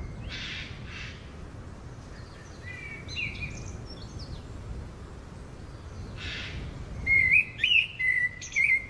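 Birds chirping: a few short calls about three seconds in, then a louder run of chirps and warbles near the end, over a steady low rumble with two brief hissing bursts.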